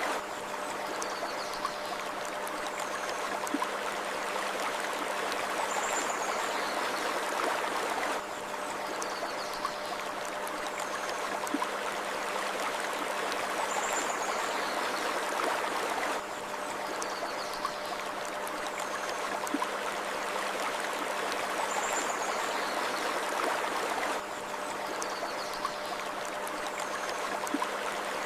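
Steady rush of a flowing stream with faint high bird chirps over it, a short recording looped so that the same stretch repeats about every eight seconds.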